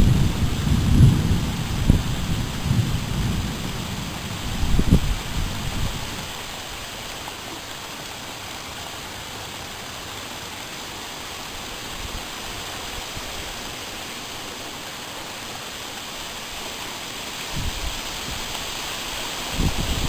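Thunder rumbling over steady rain. The rumble dies away about six seconds in, leaving the even hiss of rain, and a fresh low rumble starts near the end.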